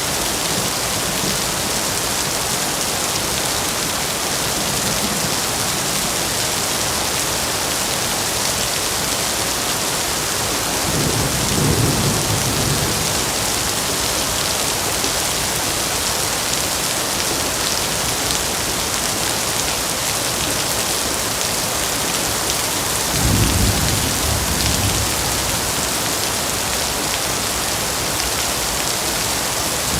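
Heavy rain falling steadily, an even hiss of drops on surfaces. Twice, about a third of the way in and again about three quarters through, a low rumble swells for a couple of seconds under the rain.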